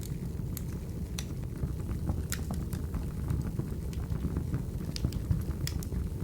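Wood fire crackling: a steady low rumble of burning logs with scattered sharp pops and snaps at irregular intervals.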